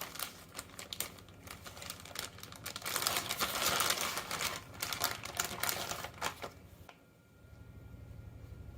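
Shredded cheese being handled and sprinkled over dough: a run of light crinkling and small ticking sounds, busiest in the middle, that stops about seven seconds in.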